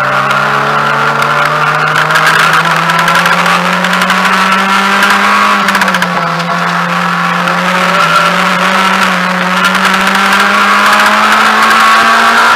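Mazda MX-5 race car's four-cylinder engine under hard throttle, heard from inside the cabin, its pitch climbing slowly with brief dips about six and eight seconds in.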